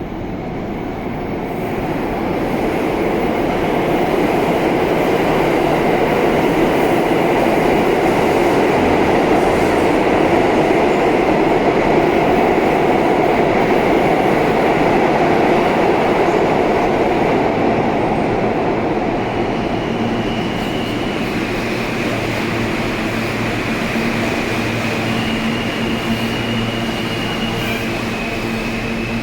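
R160-series New York City subway train running through the station, a steady rumble of wheels on rail that builds over the first few seconds and eases off after the middle. Near the end a few steady electric whine tones from the train's traction motors come in over the rumble.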